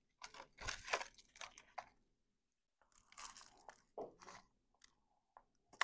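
Biting into and chewing a crisp, flaky puff pastry patty: two runs of crackly crunches, each about a second and a half long. A single sharp click near the end is the loudest moment.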